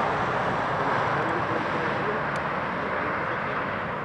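Jet airliner engines running as the aircraft taxis: a steady rushing roar that eases slightly toward the end.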